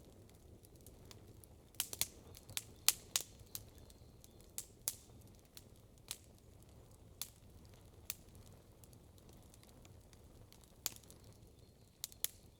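Wood campfire crackling: irregular sharp pops and snaps, bunched most thickly a couple of seconds in, then more scattered, over a faint steady low background noise.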